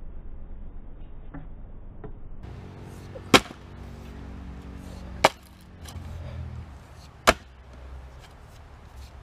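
Axe striking a knotty, twisted fir round three times, about two seconds apart, as the round resists splitting. A low steady hum runs underneath from a few seconds in.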